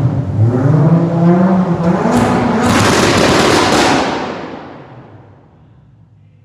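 A V8 muscle car's engine revving loudly with its exhaust crackling, then dying away after about four seconds.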